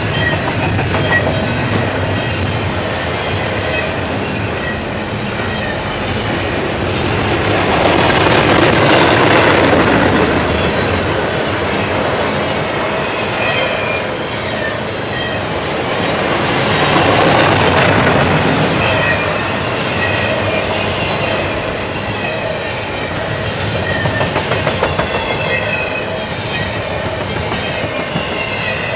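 Double-stack container train rolling past at speed: a steady rumble of steel wheels on rail that swells louder twice, with faint high-pitched wheel squeal.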